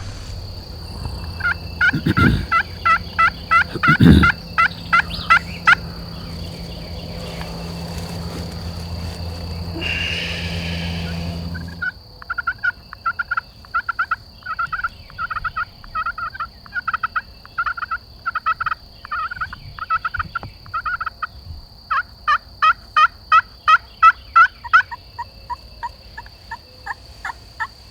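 Turkey yelping: long runs of evenly spaced yelps, about two or three a second, in three series. A steady high insect trill runs underneath, and a low rumble with two thumps fills the first half.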